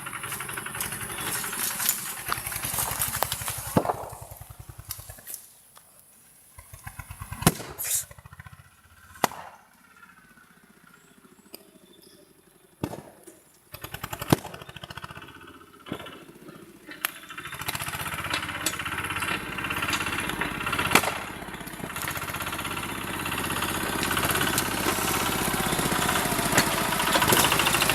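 Tractor engine running, then dropping away after about five seconds into a quiet stretch broken by sharp cracks and two short bursts of engine firing. The engine then runs steadily again and grows louder toward the end.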